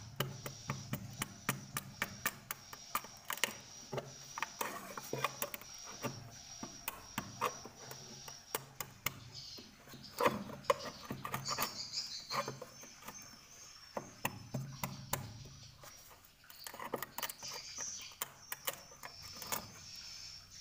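Sounds of a swiftlet house: rapid, irregular sharp clicks over a steady high chirping tone.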